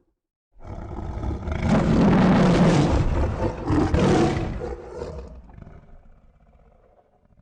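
One long, deep creature roar sound effect, from stock lion and monster roars: it swells in about half a second in, holds loud for a few seconds, then trails off into a low rumble.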